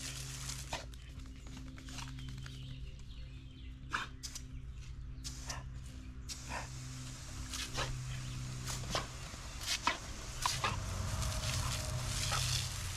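A dog playing in water, with scattered short, sharp sounds over a steady low hum.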